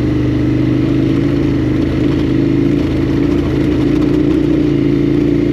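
KTM 1290 Adventure R's V-twin engine running at a steady cruise, holding one even engine note throughout.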